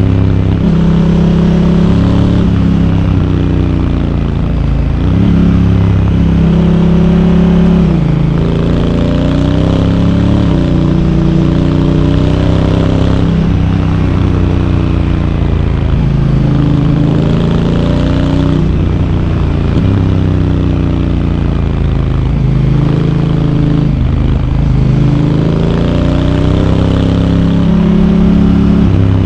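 Honda Africa Twin's parallel-twin engine under way, its pitch climbing under throttle and then dropping in steps as the DCT dual-clutch gearbox shifts, about half a dozen times, over steady wind and road noise.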